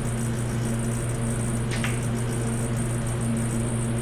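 Steady low machine hum with a high whine above it, unchanging throughout, and a faint brief scrape about two seconds in.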